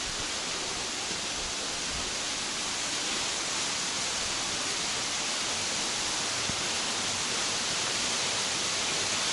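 Steady rushing hiss of a waterfall, an even wash of falling water that grows slightly louder.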